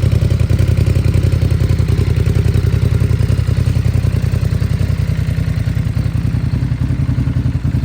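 Ducati Monster's twin-cylinder engine idling steadily through a Termignoni exhaust, with an even, rapid pulsing beat.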